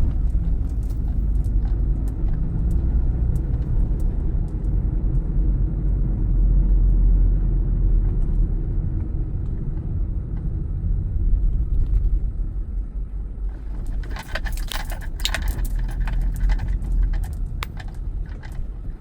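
A car driving, with a steady low rumble of engine and road. About three-quarters of the way through, a few seconds of light clicking and rattling.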